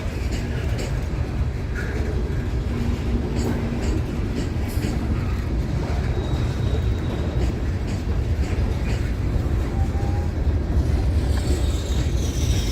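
Train rolling past on the rails: a steady low rumble with scattered clicks of the wheels, and a high squeal sliding down in pitch near the end.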